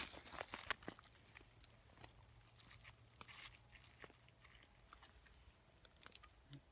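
Crisp crunching and snapping of fresh oyster mushrooms being broken off and handled, a quick cluster in the first second, then faint scattered clicks.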